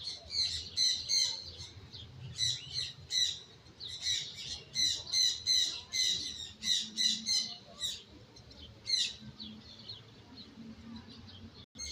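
A bird calling over and over in short, sharp chirps, several a second, that thin out near the end.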